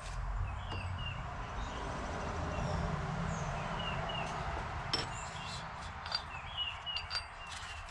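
Small birds chirping repeatedly over a steady background hiss and low rumble that swells and fades, with a few sharp clicks in the second half.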